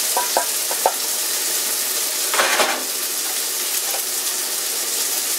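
Pepper bacon and chicken thighs sizzling steadily in frying pans. There are a few light metal clicks in the first second and a short rattle about halfway through as the bacon skillet is tipped into a mesh strainer to drain off the grease.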